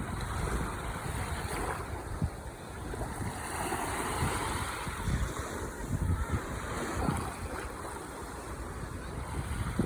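Ocean waves washing onto the shore, one surge swelling up near the middle, with wind buffeting the microphone in low thumps.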